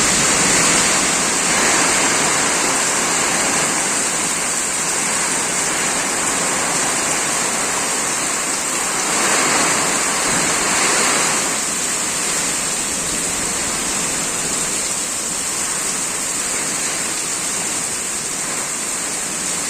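Heavy rain pouring steadily in a strong storm, swelling a little louder for a couple of seconds about halfway through.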